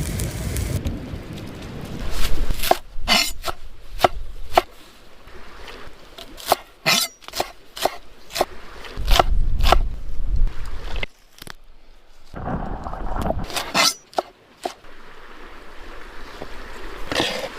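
Irregular sharp knocks and clicks, some in quick clusters, with stretches of low rumbling noise between them.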